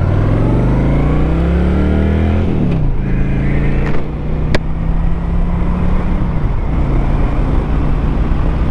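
Motorcycle engine accelerating: its pitch rises for about two and a half seconds, drops sharply at a gear change, holds steady, then drops again about six seconds in. A single sharp click sounds about four and a half seconds in.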